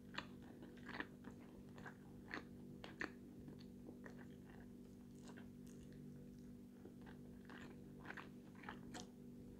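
A person chewing food close to the microphone: faint, scattered wet clicks and smacks of the mouth, over a low steady hum.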